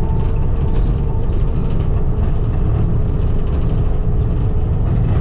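Skid steer's diesel engine running steadily under working load, a continuous low rumble.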